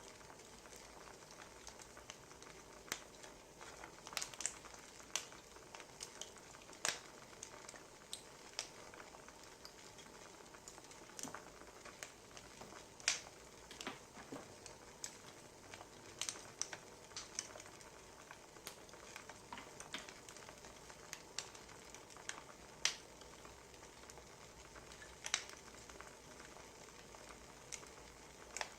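Wood fire crackling: irregular sharp pops and snaps over a soft, steady hiss of burning logs.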